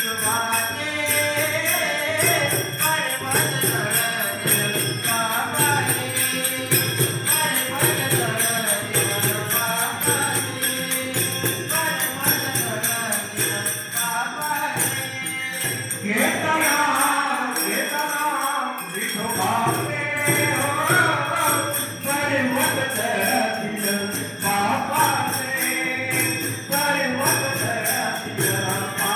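A voice singing a melodic song with musical accompaniment, over a fast, steady jingling of small bells or cymbals keeping the rhythm.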